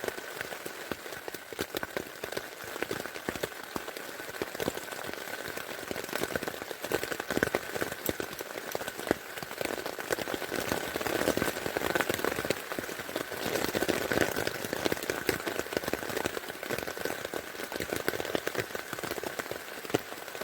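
Rain falling hard on a tent, heard from inside: a dense, continuous patter of drops on the tent fabric, with a faint steady high tone underneath.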